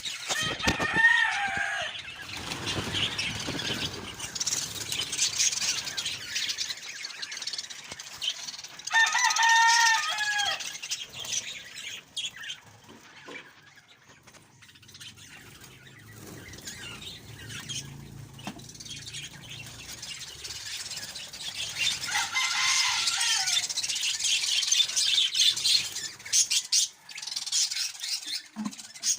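Budgerigar chicks squawking and cheeping in their nest, with continual scratchy high-pitched chatter. Three louder calls drop in pitch: near the start, about a third of the way in, and late on.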